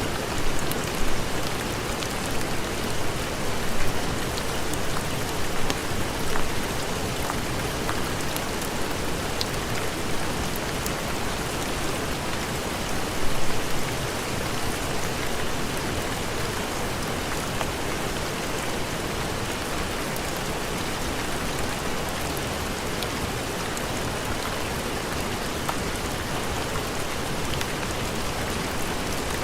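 Steady heavy rain, an even hiss with scattered drop ticks, swelling louder a few times in the first seven seconds and once about thirteen seconds in.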